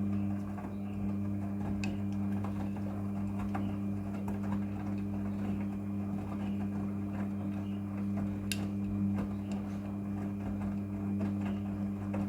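Front-loading washing machine running a wash cycle: a steady motor hum as the drum turns, with scattered light clicks and knocks from the tumbling load and one sharper click near the end.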